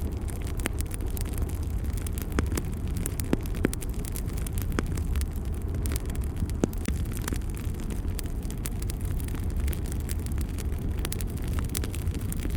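Fire burning in a fireplace: a steady low rumble with frequent sharp crackles and pops scattered irregularly throughout.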